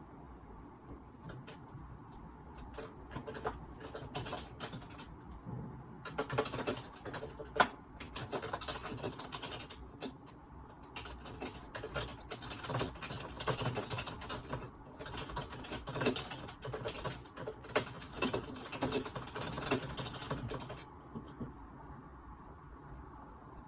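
Typing on a computer keyboard, picked up through a phone microphone: a few scattered key clicks, then a long run of quick, continuous typing that stops a few seconds before the end.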